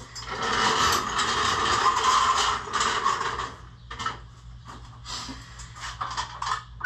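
A loud mechanical rattling scrape lasting about three and a half seconds, followed by scattered knocks and clicks.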